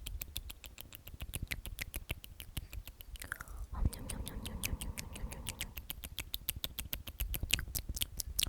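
Close-miked whispered repetition of 'omnomnom', made up of rapid wet mouth clicks and lip smacks, several a second, with a brief soft vocal glide about three and a half seconds in.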